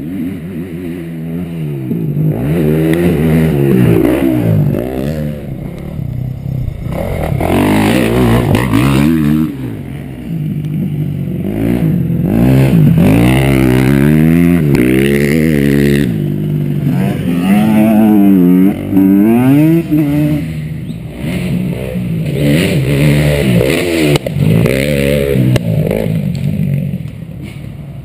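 KTM SX-F 250 four-stroke single-cylinder motocross engine under hard riding, its pitch climbing and dropping again and again as the throttle opens and closes and the gears change.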